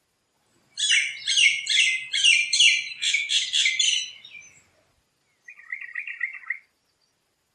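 A bird calling in a run of rapid repeated notes, about three a second, for some four seconds. About a second later comes a shorter, lower run of notes.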